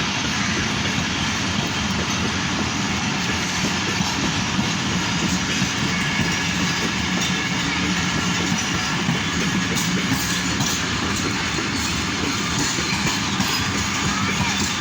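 Passenger train running on the rails: a steady rumble of wheels and carriages, with faint clicks of the wheels over the track in the later seconds.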